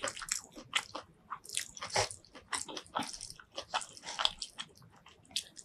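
Close-miked eating sounds: chewing with many short, sharp crunches and crackles.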